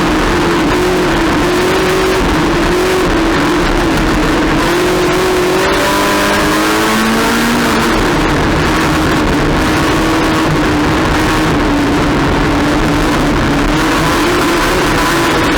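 Race car engine running hard at high revs, its pitch rising and falling with throttle and gear changes under a dense rush of noise, with a brief break a little before six seconds in.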